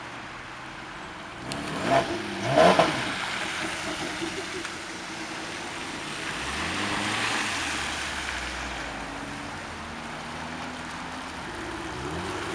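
Car engines running and revving. The loudest rev comes about two to three seconds in, and weaker rising revs follow later.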